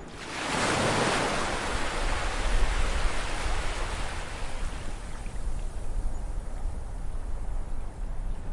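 Ocean wave breaking on the shore: a surge of surf about a second in that slowly washes out and fades over several seconds, over a low, steady rumble.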